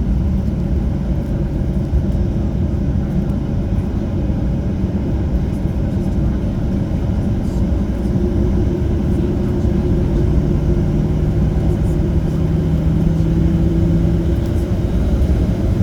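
Steady low rumble of a Boeing 737-800's engines heard inside the cabin, with a steady hum running over it, while the aircraft is on the ground before the take-off run.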